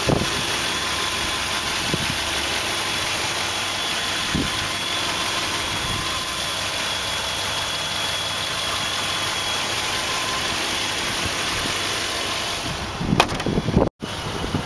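A 2006 Range Rover's V8 engine idling steadily, heard close up with the hood open. The sound shifts near the end.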